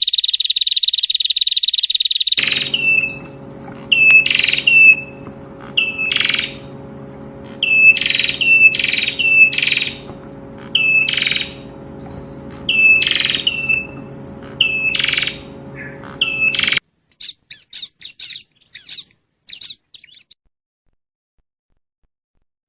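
A perenjak (prinia) singing. It starts with a loud, rapid buzzy trill for about two seconds, then gives a series of sharp down-slurred chirps, often in pairs or threes, over a steady electrical hum. Near the end the chirps and hum stop and only faint ticking remains before silence.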